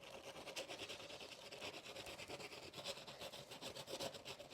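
Sandpaper rubbing quickly back and forth over the surface of an oil painting whose paint is still partly wet, a faint dry scratching of many short strokes.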